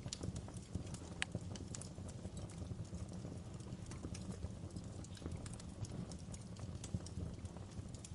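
Wood fire burning in a fireplace: a steady low rumble of the flames with scattered sharp crackles and pops, one stronger pop about a second in.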